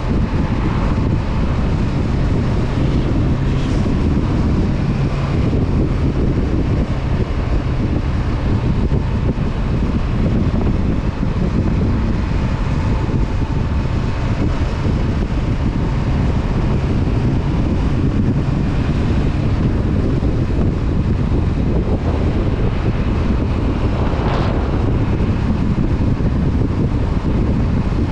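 Honda CB500F's parallel-twin engine running at a steady cruising speed, with heavy wind noise buffeting the microphone.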